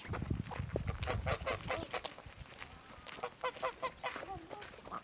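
Chickens clucking in a series of short calls, most densely a little past the middle. A low rumble runs under the first second and a half.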